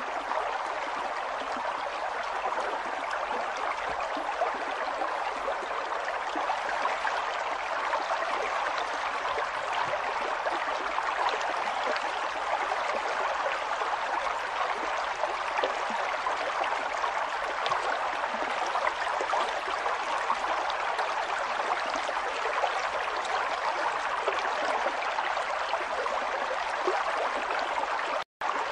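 River water flowing steadily over stones, a constant babbling rush. It cuts out to silence for a moment near the end.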